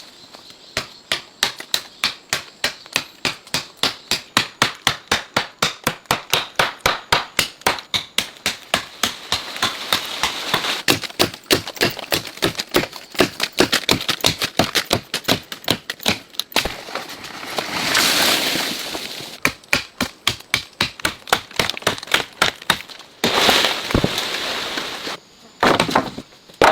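Wood being chopped with a blade in rapid, regular strokes, about three or four a second, with a stretch of steady noise about two-thirds of the way through before the chopping resumes.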